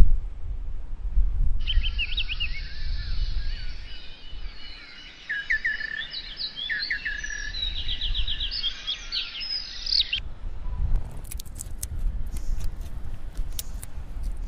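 Songbird chirps and quick trills over a steady low rumble, cutting in about a second and a half in and stopping abruptly around ten seconds. Scattered sharp clicks follow near the end.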